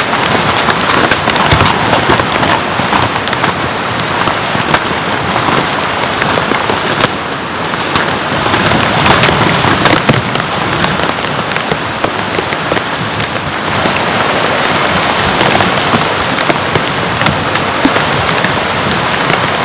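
Heavy rain falling steadily, with a dense, continuous spray of sharp drop impacts.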